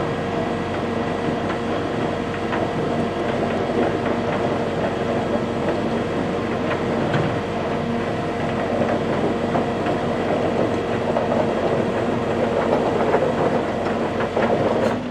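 Tow truck winch running steadily as it pulls a motorcycle up onto the truck, a constant hum with rattling clatter, cutting off at the very end.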